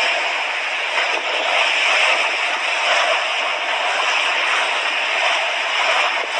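Sea waves washing on a beach: a steady rush of surf that swells slightly now and then.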